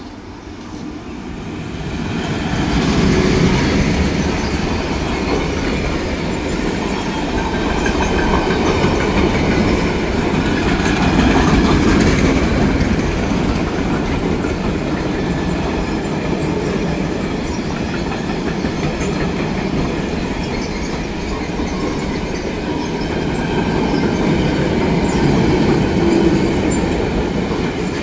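Freight train passing through: the steady rumble of wheels running on the rails builds over the first few seconds, stays up while the wagons roll by, and eases off near the end.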